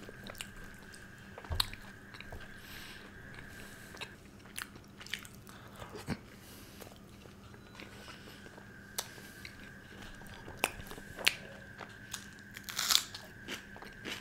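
Close-miked chewing and biting by a person eating soft layered paratha with butter chicken gravy: irregular wet smacks and sharp mouth clicks, the loudest near the end.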